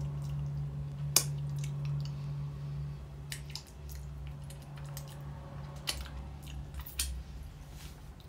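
Chewing a Hershey's White Creme bar with popping candy, with scattered sharp pops and clicks from the mouth at irregular intervals, over a steady low hum.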